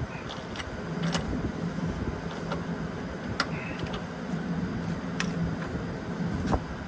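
Steady low machine hum, with four sharp knocks spread through it.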